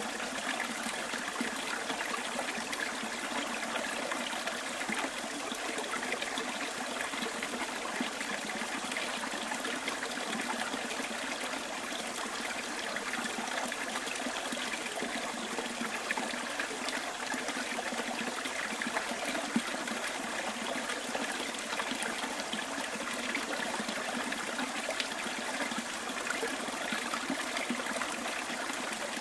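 Small stream trickling and babbling over stones, a steady splashing with little peaks of spatter.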